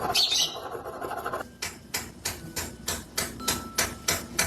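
A quick, even run of sharp taps or knocks, about four a second, that stops abruptly.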